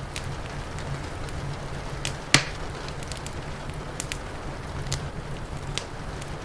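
Wood fire crackling, with scattered sharp pops and one loud snap about two and a half seconds in, over a steady hiss of rain.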